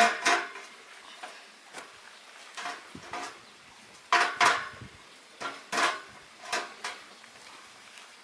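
Irregular metallic clanks and knocks of iron bars being handled and struck, about a dozen in all; the first few ring briefly.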